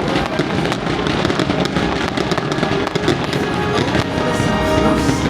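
Fireworks going off in a dense run of quick pops and crackles, over loud show music.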